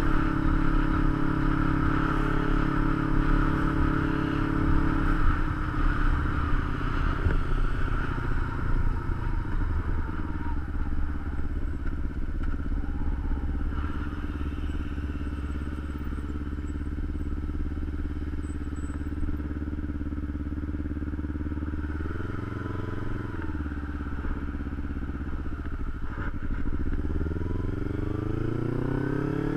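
Kawasaki Ninja 250's parallel-twin engine, heard from a camera mounted on the bike. With wind noise at first, the engine slows and settles to a steady idle. It gives one short blip of the throttle, then revs rise steeply as the bike pulls away near the end.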